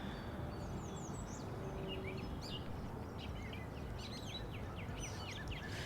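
Small birds chirping, giving many short, quick calls over a steady low background rush.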